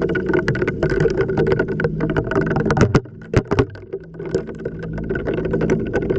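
Washing machine mid-wash, heard from inside the drum: water sloshing and the load tumbling, with repeated knocks over a low motor hum. About three seconds in the tumbling drops away briefly, a few sharp knocks follow, and the churning builds back up.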